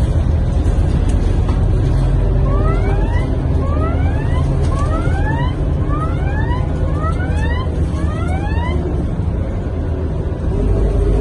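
Scania K230UB bus running, heard from inside: a steady engine and road rumble. Partway through, about ten short rising electronic chirps repeat roughly every half second for about six seconds, then stop.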